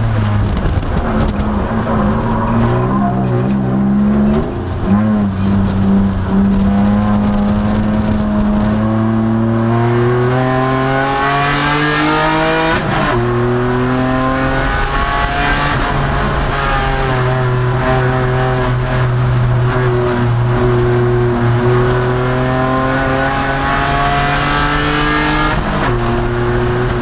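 A 2002 Nissan Maxima race car's V6 engine running hard on track, with its revs climbing to a gear change about a third of the way in. It pulls on, then the pitch falls away over several seconds before another shift near the end.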